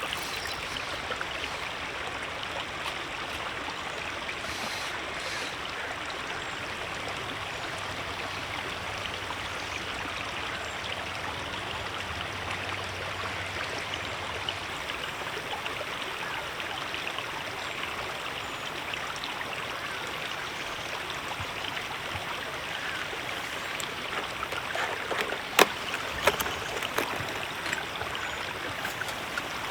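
River water flowing steadily over rocks, an even rushing sound. Near the end a few sharp clicks or knocks stand out above it.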